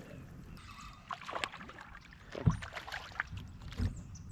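Water splashing and knocks as a hooked fish is brought in and landed, with a couple of short dull thuds, the loudest about halfway through.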